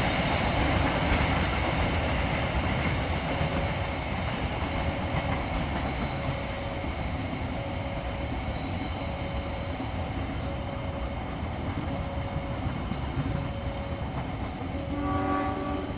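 Low, steady rumble of a diesel passenger train, slowly fading.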